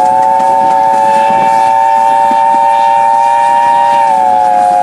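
A steam locomotive's whistle sounding one long, loud blast: a steady chord of several notes at once that sags slightly in pitch near the end.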